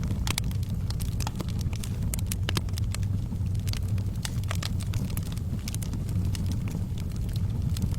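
Wood fire burning in a fireplace: a steady low rumble of the flames with frequent irregular crackles and snaps of burning logs.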